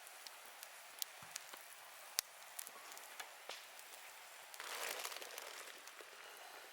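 Wood campfire crackling quietly, with scattered sharp pops, one much louder about two seconds in, and a brief swell of hissing about five seconds in.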